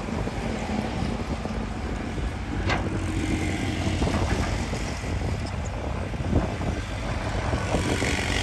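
Heavy earthmoving machinery running steadily with a low diesel rumble, with a few faint knocks and clicks.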